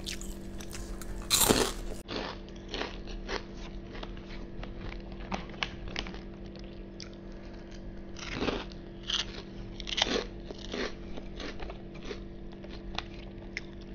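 Close-miked chewing and biting of a mouthful of nasi padang, with irregular crunches and wet mouth clicks; the loudest crunches come about a second and a half in and twice more in the second half.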